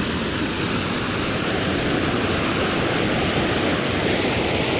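Rain-swollen creek running fast, a steady rush of water.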